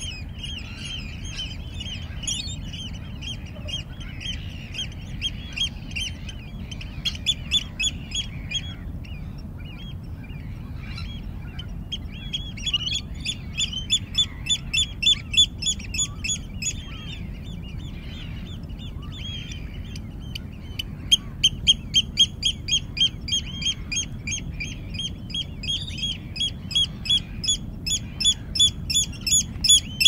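A bird calling in runs of short, rapidly repeated high notes, each run lasting several seconds and the last one growing louder near the end, over a steady low rumble of background noise.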